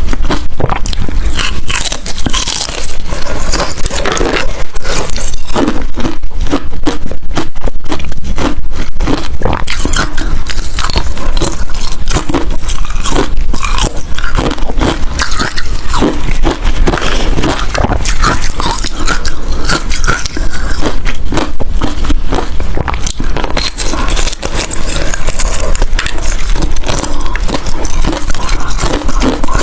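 Ice being bitten and chewed close to the microphone: a dense, loud run of crunches and crackles as the ice cracks between the teeth.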